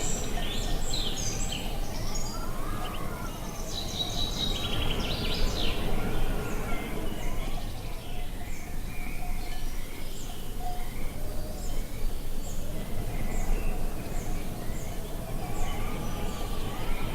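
Birds chirping and singing over a steady rumble of wind. A busy tangle of calls fills the first few seconds, then one bird repeats a short high chirp a little more than once a second.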